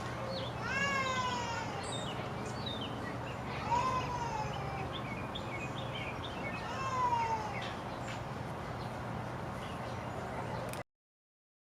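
Peacock (Indian peafowl) calling three times, a loud cat-like call that falls in pitch, about three seconds apart, with short chirps behind. The sound cuts off suddenly near the end.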